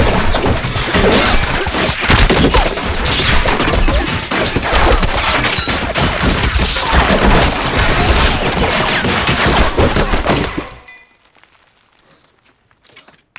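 Sustained heavy gunfire mixed with glass shattering and things breaking. It starts abruptly and runs as a dense barrage of shots and impacts, then stops about eleven seconds in.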